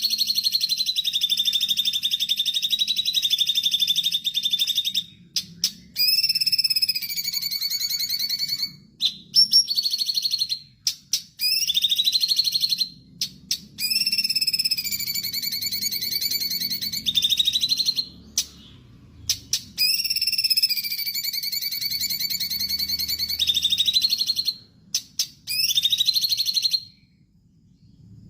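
Cucak cungkok singing: long, rapidly trilled whistled phrases of several seconds each, some starting with a rising slur, broken by short gaps with quick sharp notes. The song stops about a second before the end.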